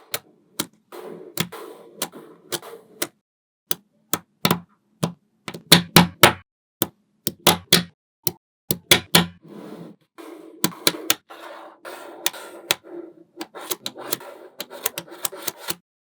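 Small magnet balls clicking sharply together as they are snapped into place, many irregular clicks in quick clusters, with short rattling and scraping between them.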